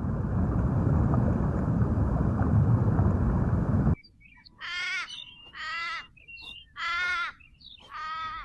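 A steady low rushing noise that cuts off suddenly about four seconds in, then a bird gives four harsh, raspy calls about a second apart.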